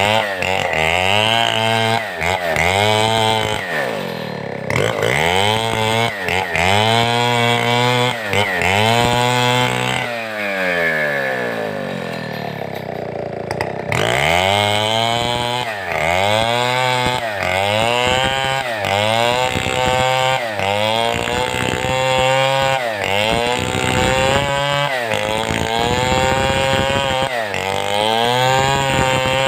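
Large Stihl 070-type two-stroke chainsaw cutting timber, its engine pitch surging up and down about once a second. Around a third of the way in the revs fall away for a few seconds, then climb and the surging resumes.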